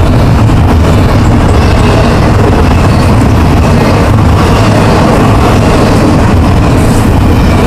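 Double-stack intermodal train's well cars rolling past at close range: a loud, steady rumble of steel wheels on rail.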